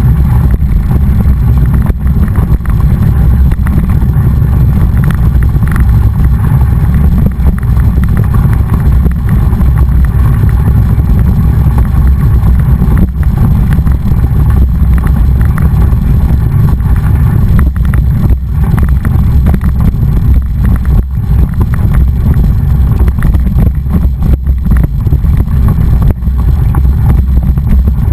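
Heavy, steady wind buffeting on the microphone mixed with rumble from a mountain bike being ridden.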